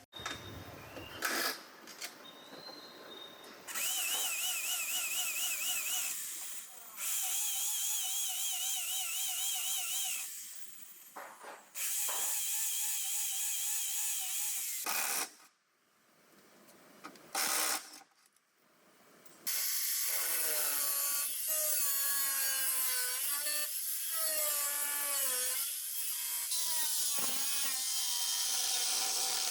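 Power tools running in several separate bursts with abrupt stops between them, their pitch wavering and, in the last long burst, sliding up and down.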